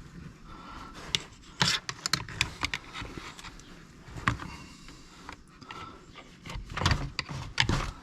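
Hands and small parts clicking and knocking against a chainsaw's housing as a part is pushed and worked into place. The knocks come in a cluster about a second and a half in and a denser run near the end.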